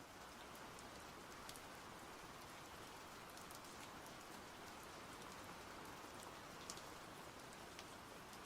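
Faint, steady rain falling, with scattered sharp drop ticks on a surface.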